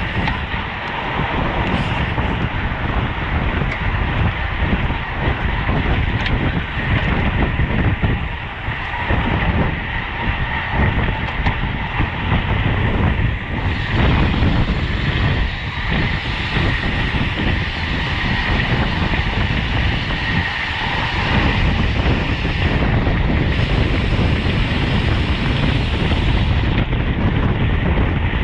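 Steady wind rush on the microphone and road rumble from bicycle tyres at racing speed, with a thin steady high whine running through it.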